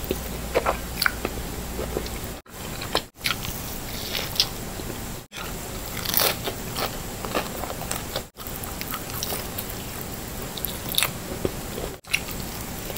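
A person biting and chewing cauliflower-crust pepperoni pizza, with short crunches and crackles of the crust scattered throughout.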